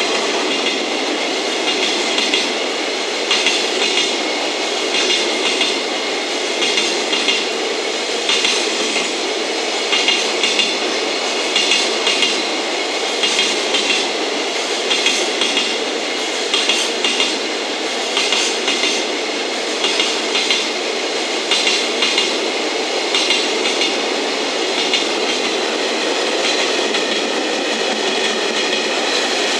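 Long container freight train rolling past at speed, its wheels clacking over rail joints in repeated groups of clicks over a steady rolling rumble. Near the end the clacks thin out.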